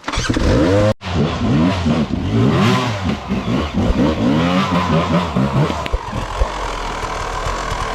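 Dirt bike engine revving, its pitch rising and falling again and again as it is ridden, then running steadier near the end. The sound cuts out for an instant about a second in.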